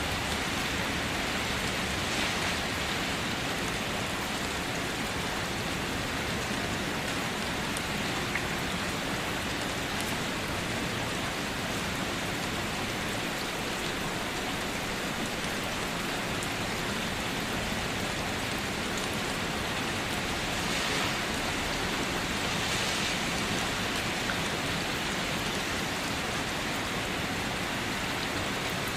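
Steady rain falling, an even hiss of countless drops with no thunder.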